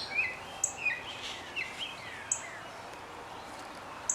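Songbirds chirping: a quick run of short, high calls over the first two seconds, a lull, then more calls near the end, over a steady faint outdoor hiss.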